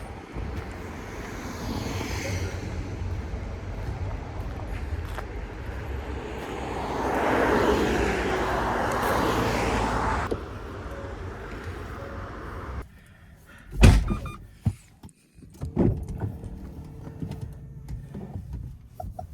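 Road noise of a Porsche Taycan on the move, an even rush of tyre and wind noise with no engine note, swelling louder for a few seconds before cutting off abruptly. After a quieter moment comes one loud thump, then a few softer knocks.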